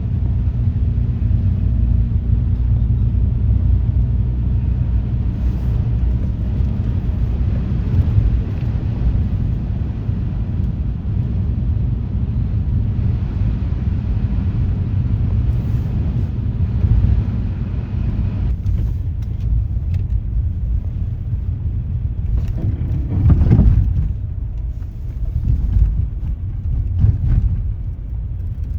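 Steady low rumble of a car driving, heard through a dashcam inside the cabin: road and engine noise. It swells louder for a moment about 23 seconds in.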